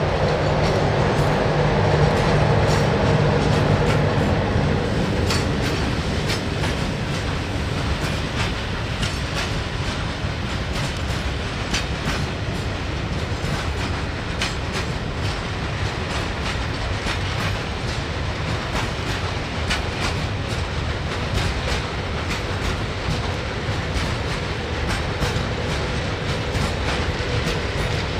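Train running along the track: a steady rumble of wheels on rail with irregular clicks from the rail joints. A low hum in the first few seconds fades out.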